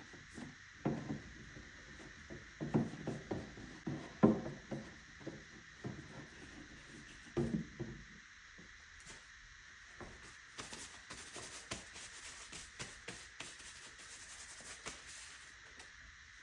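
Plastic motor-oil bottles being handled: irregular knocks and rubbing for the first half, then several seconds of fast crackling.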